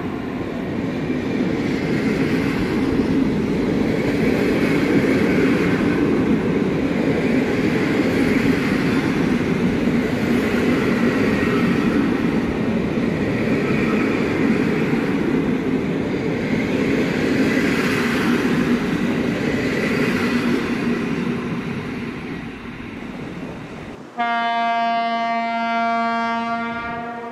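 Passenger train coaches running past on the rails with a steady rumble of wheels and bogies, fading as the last coaches go by. Near the end, a diesel locomotive's horn sounds one held note for about three seconds.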